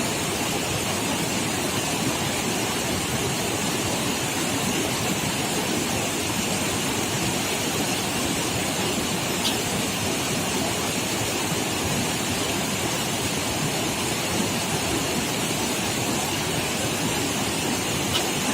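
Steady rushing of flowing river water, an even noise that neither rises nor falls.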